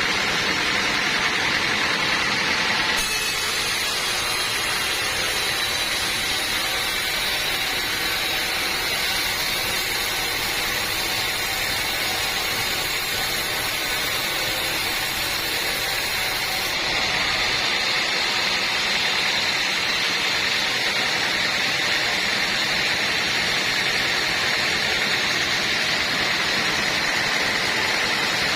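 Sawmill machinery running steadily with a constant whine. An added high hiss comes in about three seconds in and stops about seventeen seconds in.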